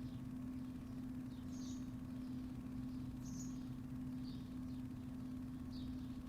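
Small birds chirping in short scattered calls, the two strongest about a second and a half and three seconds in, over a steady low mechanical hum that runs throughout and is the loudest sound.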